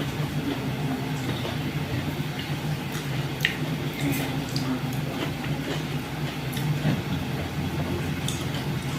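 Eating sounds: soft squelching and small clicks of chewing dhido and chicken curry, over a steady low hum.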